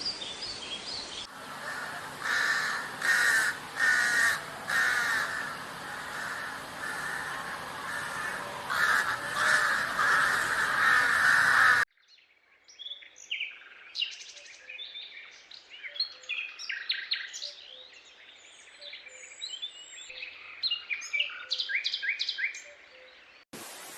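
Wild birds calling. First come harsh, repeated calls over a steady background hiss. After an abrupt change about halfway, a clearer mix of short chirps and whistling calls follows.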